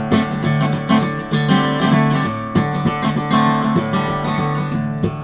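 Acoustic guitar being strummed and picked, an instrumental passage of a song.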